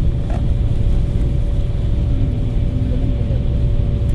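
Coach engine and road rumble heard from inside the bus cabin: a steady low drone with a thin, constant hum above it.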